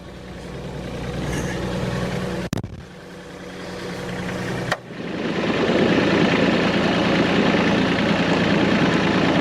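Compact diesel tractor engine working the front loader, its sound climbing in level. It breaks off abruptly twice, then runs loud and steady from about five seconds in.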